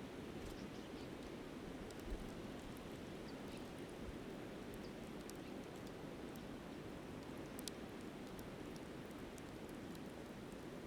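Steady rush of flowing river water, with a few faint crackles and pops from a campfire's burning embers.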